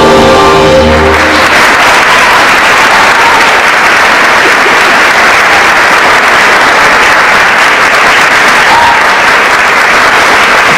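The last held note of a song, voice and accompaniment, ends about a second in, and an audience applauds steadily for the rest of the time.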